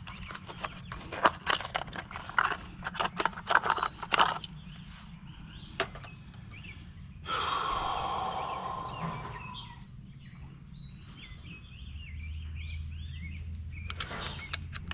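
Small parts and packaging being handled: a run of quick clicks and rattles, then a louder rustling scrape about seven seconds in.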